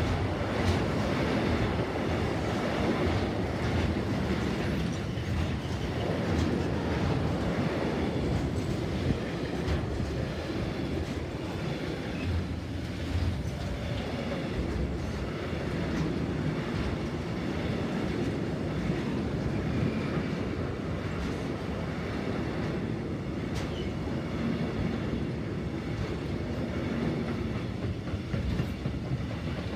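Container freight wagons rolling steadily past close by, their steel wheels rumbling on the rails with a few sharp clicks.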